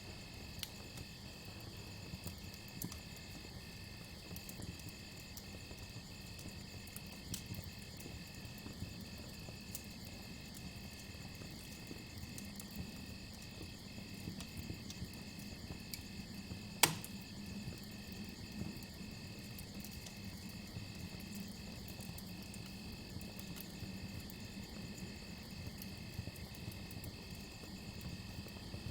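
Campfire crackling with scattered small pops and one loud sharp pop about two-thirds of the way through, over crickets chirping in a steady, evenly pulsing trill.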